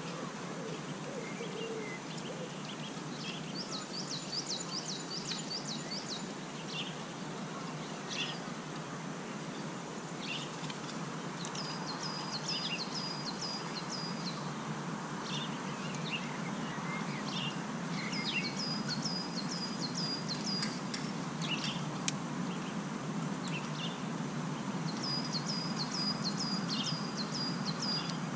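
Small birds singing: about five short phrases of quick, high, repeated notes, with single chirps between them, over a steady outdoor background hiss.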